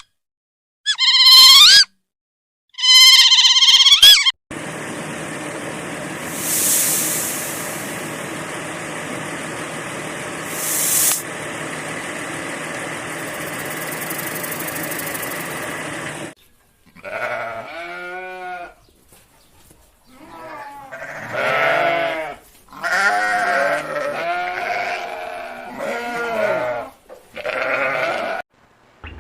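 Goats bleating repeatedly in wavering calls through the second half. Before them come three short, loud, high calls, then a steady droning background for about twelve seconds.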